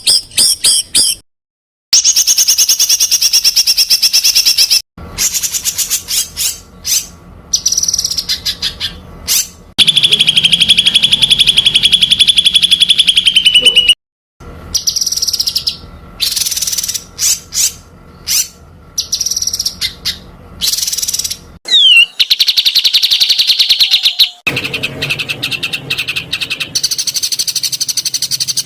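Songbirds singing rapid-fire, closely packed bursts of repeated notes and trills, the 'tembakan' phrases used as song-tutor material for competition songbirds. It comes as several separate recordings joined by abrupt cuts with short silences between them.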